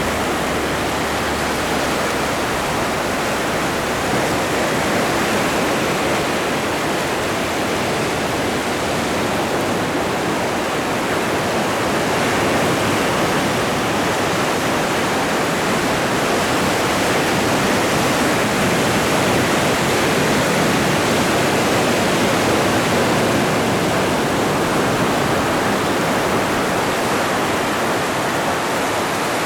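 Ocean waves washing in, a steady rushing surf noise that swells a little about halfway through.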